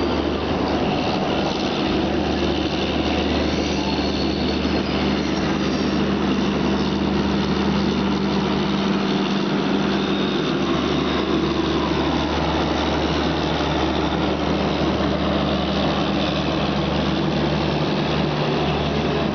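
Steady running noise of a train moving slowly, heard from aboard a suburban EMU: an even rumble with a constant low hum underneath.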